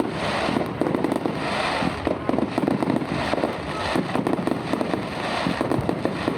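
Aerial fireworks display going off in a dense, unbroken run of bangs and crackling bursts.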